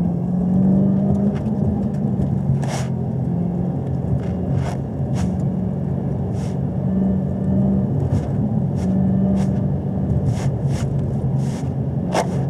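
Car engine held at steady low revs, about 2,800 rpm in second gear, while circling a wet skid pad at around 35 mph, heard from inside the cabin over the hiss of wet tyres. About a dozen short, sharp ticks are scattered throughout.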